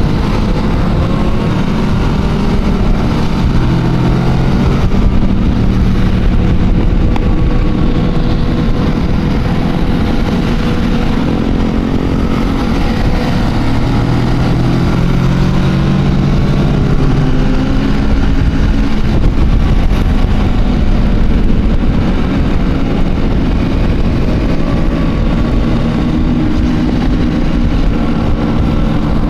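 Motorcycle engines running on a group ride, their pitch rising and falling with the throttle, over a heavy low wind rumble on the microphone.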